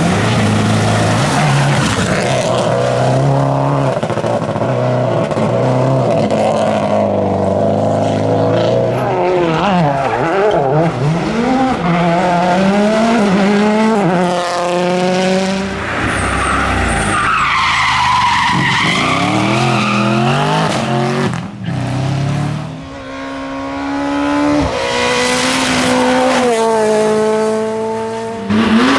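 Rally car engines driven flat out, revving up through the gears with the pitch climbing and dropping back at each shift. There is a short lift off the throttle partway through, and tyres are skidding.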